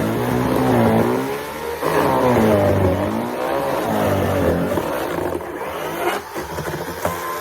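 Chainsaw running and cutting, its engine pitch repeatedly dropping under load and rising again as the throttle is worked.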